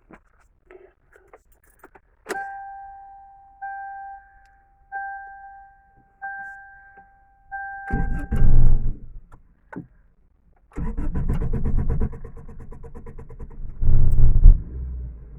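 Toyota Corolla cold start in the snow. A few key clicks, then the dashboard warning chime beeps five times. The starter cranks briefly about eight seconds in, then cranks again from about eleven seconds until the engine catches near the end and settles into a low, steady idle.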